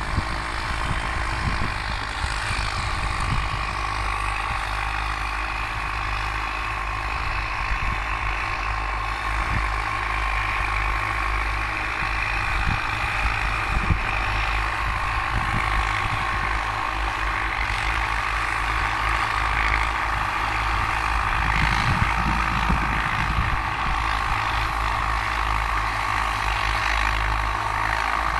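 Ford farm tractor engine running steadily while pulling a three-disc plow.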